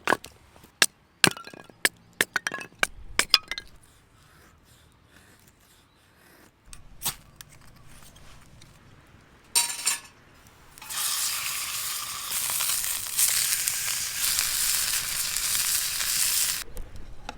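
A quick run of clinks and knocks, then steak sizzling loudly for about six seconds before stopping abruptly.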